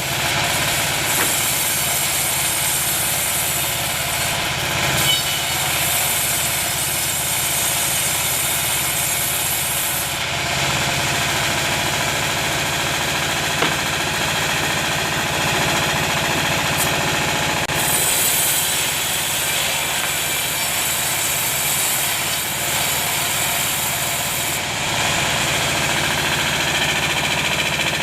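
A sawmill's engine-driven band saw running steadily while sawing timber. A high hissing layer drops out about a third of the way in, returns about two-thirds in, and drops out again near the end.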